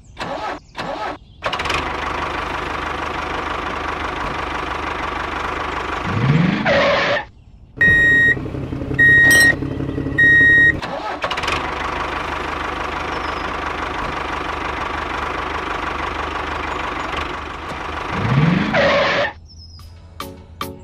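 Tractor engine running steadily, rising in pitch briefly about six seconds in and again near the end. In between come three short, high horn beeps.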